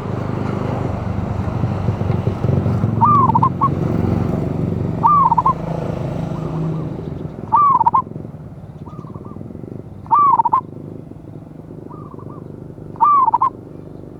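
Zebra dove (perkutut) cooing, one loud phrase about every two and a half seconds from about three seconds in, with a fainter call between the phrases. A low rumbling noise underneath fades out about halfway.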